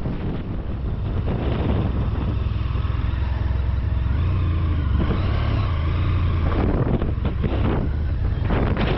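Honda VFR1200X Crosstourer's V4 engine running while riding, the revs rising and falling.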